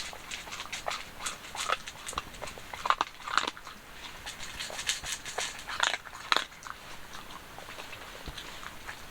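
A Jindo-mix dog chewing something hard, with irregular crunches and clicks throughout.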